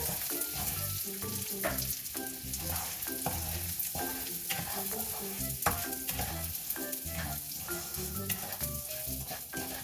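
Raw rice stir-frying in oil with rendered chicken skin and garlic: a steady sizzle with frequent scrapes and knocks of the stirring utensil against the pan.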